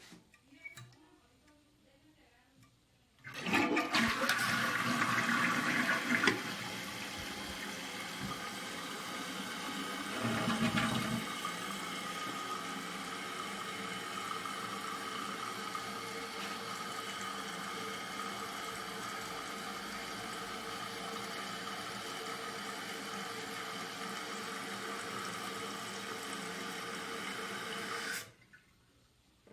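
2001 Eljer Savoy toilet flushing: a loud rush of water for about three seconds, starting a few seconds in. The tank then refills with a steady hiss of running water for about twenty seconds, which shuts off suddenly near the end.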